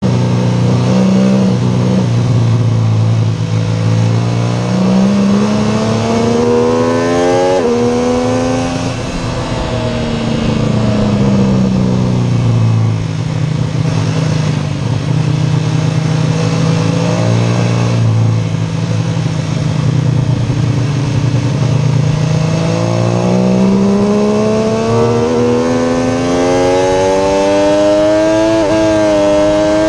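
MV Agusta F3 675's three-cylinder engine at full throttle, recorded onboard behind the windscreen with wind rush. The revs climb and drop at an upshift about seven seconds in, fall away under braking, hold low and steady through a long stretch in the middle, then climb steadily again from about twenty-two seconds with another gear change near the end.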